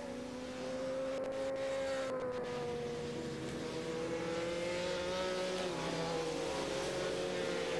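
Four-stroke racing superbike engines running hard at high revs, the pitch holding fairly steady with small rises and falls.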